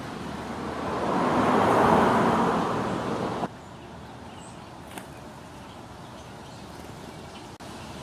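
A road vehicle passing by, its noise swelling to a peak about two seconds in and then cutting off suddenly, leaving steady, quieter outdoor background noise with a single small click.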